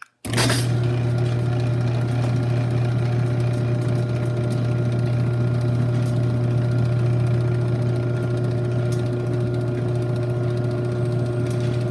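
Chamberlain chain-drive garage door opener starts about a quarter second in and runs steadily: a strong low motor hum with a few fainter, higher steady tones.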